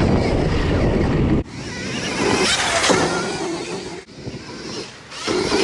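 Dirt bike being ridden on a rough track, heard mostly as heavy wind buffeting on the microphone that cuts off abruptly about a second and a half in. After that a quieter, wavering whine rises and falls over rustling dirt and tyre noise, and the wind noise builds again near the end.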